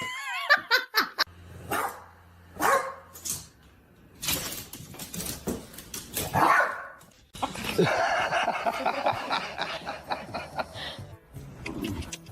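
A dog barking several times, with music playing.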